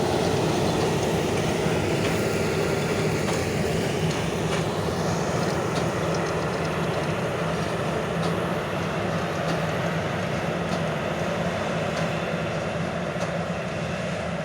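Heavy diesel farm machinery running steadily in the field: a continuous engine drone with mechanical clatter and no change in pace.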